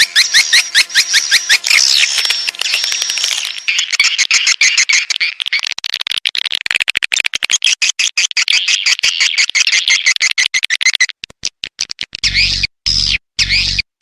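Recorded swiftlet calls: a dense run of fast, repeated high chirps and twitters mixed with quick clicks. It is a swiftlet lure or call sound, played to draw swiftlets to a nesting house. Near the end the sound breaks up in short gaps with a low hum.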